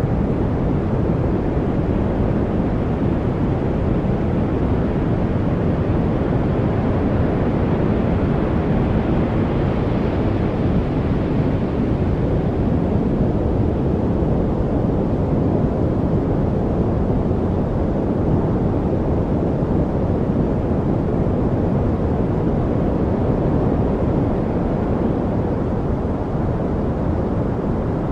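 Steady noise track: an even, deep rushing sound, heavy in the low range with little hiss on top, with no tones or distinct events. The higher part swells slightly about ten seconds in.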